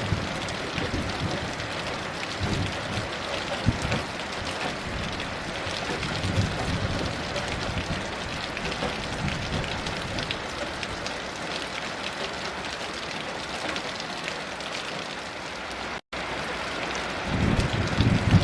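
Heavy rain falling steadily, with low rumbles of distant thunder now and then and a longer rumble near the end. The sound cuts out for an instant about two seconds before the end.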